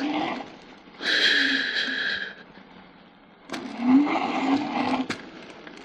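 Electric scooter's hub motor whining and rising in pitch in two bursts of throttle as the tyres slip and spin on snow, with a higher steady whine lasting about a second in between and a few sharp clicks.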